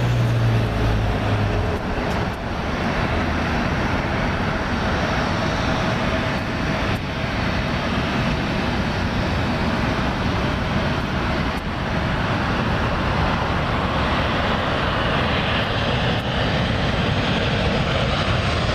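Jet airliner engines running, a steady loud rush with a faint whine in it.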